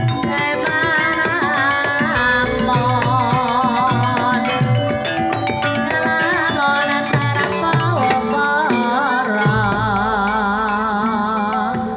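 Banyumasan gamelan playing a tayub gending: a sinden sings a wavering, ornamented vocal line over steady ringing metallophone tones and repeated low kendang hand-drum strokes.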